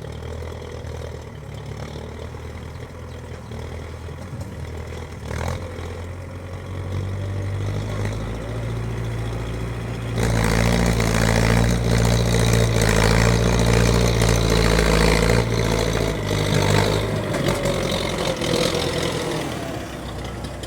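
Old tractor engine running steadily, then revving up and working hard about halfway through, louder for several seconds before easing back down near the end.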